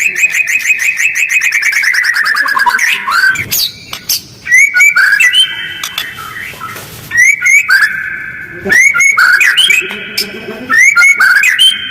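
White-rumped shama (murai batu) singing fast, harsh song: a rapid trill of repeated notes falling steadily in pitch over about three seconds, then short bursts of quick upswept whistles and held notes separated by brief pauses.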